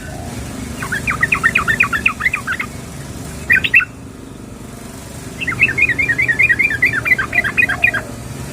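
Yellow-vented bulbul (trucukan) calling in runs of rapid bubbling notes: a long run about a second in, a short burst, then another long run through the second half, over a low steady rumble. This is the female's call to a male, used as a lure recording.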